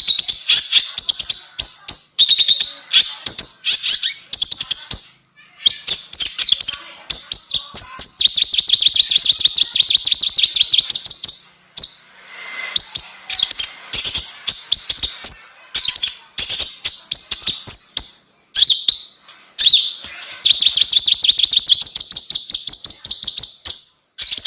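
A konin (kolibri ninja) sunbird singing vigorously: rapid, high-pitched chattering phrases broken by two long, fast trills, one about a third of the way in and another near the end.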